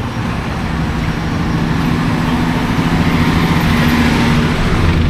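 Bus engine running, a steady low hum that grows a little louder after about a second.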